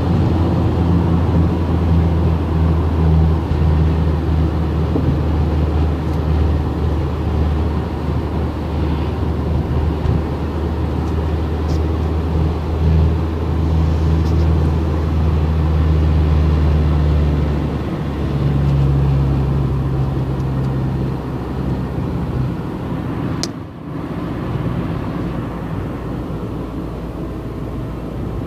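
Car engine running under way with road noise, a steady low drone. About 18 seconds in the engine note shifts to a different pitch. A few seconds later there is a brief dip with a click, followed by a rushing road and wind noise.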